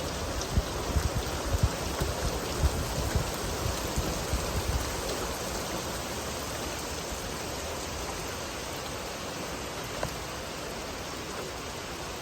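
Steady rain falling, an even hiss, with irregular low thumps through the first few seconds.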